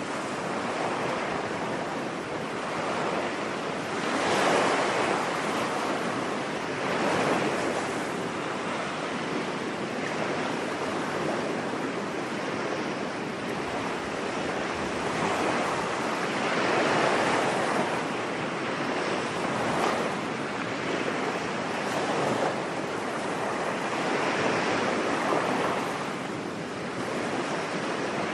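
Ocean surf washing on a beach: a steady rush of breaking waves that swells and fades every few seconds.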